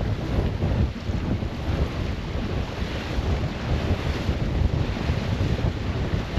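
Wind buffeting the microphone aboard a sailboat under way, a heavy gusty low rumble over a steady hiss of rushing water.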